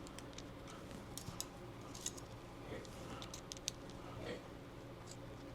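Faint, scattered clicks and light taps of a Glock pistol frame and a weapon light being handled and fitted together.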